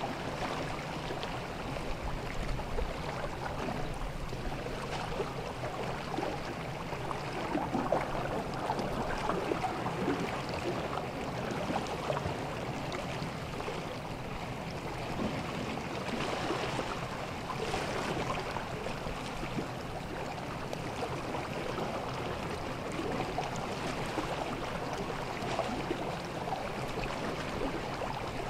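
Calm sea water washing and lapping gently at the shore, a steady wash that swells a little now and then.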